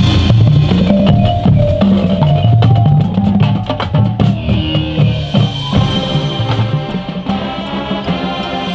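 Marching band playing, brass over a drumline with many sharp drum hits and bass drum.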